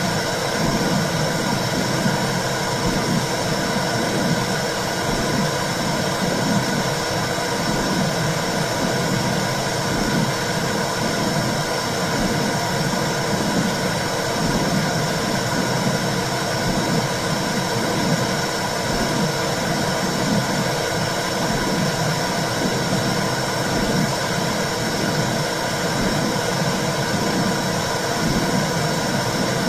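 Womb sound for soothing a baby: a steady whooshing hiss with a low, rhythmic pulse about once a second, like the mother's heartbeat and blood flow heard from inside the uterus.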